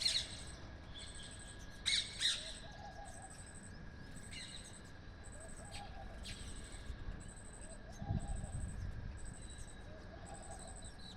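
Birds calling: a few sharp chirps about two seconds in, a low call repeated every couple of seconds, and a high thin note repeating about once a second.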